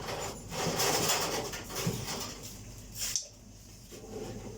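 Rustling and handling noise as raw chicken pieces are pushed and crammed into a freezer package that is too full, with a single sharp snap about three seconds in.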